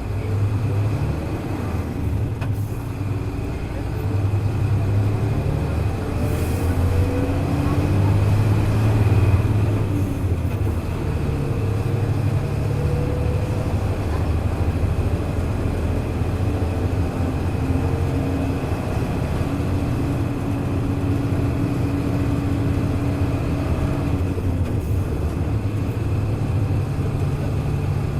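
Hino Blue Ribbon KC-HU2MMCA city bus diesel engine pulling under load, its pitch climbing over the first ten seconds or so, then running steady as the bus cruises.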